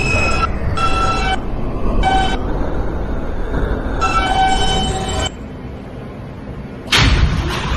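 New York subway J train's wheels squealing in four short high-pitched bouts over the rumble of the car as it runs slowly into an elevated station. The running noise drops away about five seconds in, and a sudden loud rush of noise follows near the end.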